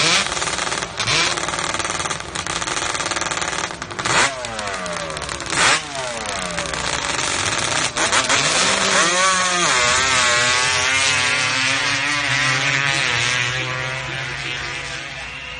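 Two drag-racing motorcycles on the starting line, revving in sharp blips that fall away. About eight seconds in they launch and accelerate hard down the sand track, engine pitch climbing in steps through the gear shifts and fading as they run away.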